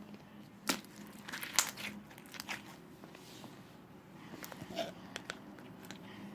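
Slime being squeezed and mixed by hand, giving sharp crackling clicks and pops in a few short clusters.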